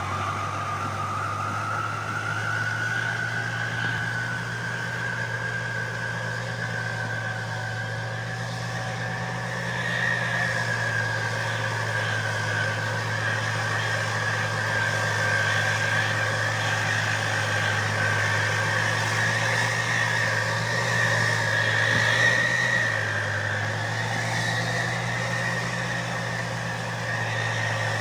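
Fiat 640 tractor's four-cylinder diesel engine running steadily under load while pulling a plough, its exhaust a constant low drone. A higher whine rises in pitch over the first few seconds and then holds steady.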